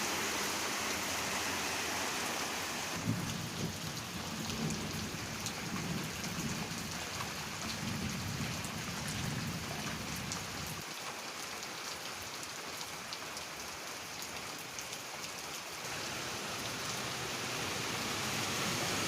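Steady rain falling, an even hiss with many individual drops ticking.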